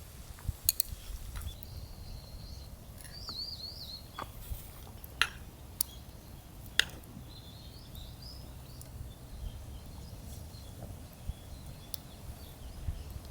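Faint small-bird twittering in two short warbling phrases, over a low outdoor rumble, with a few sharp clicks scattered through.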